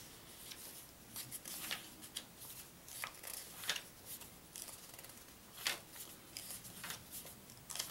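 Pages of a paper instruction manual being turned and handled: irregular short rustles and flicks of paper.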